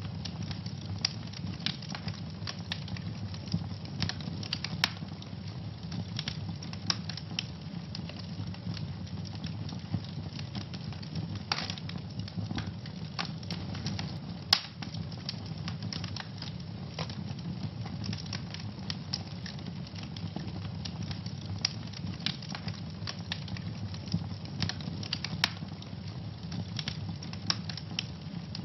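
Wood fire burning in a fireplace: a steady low rumble of flames with constant irregular crackling and occasional louder pops.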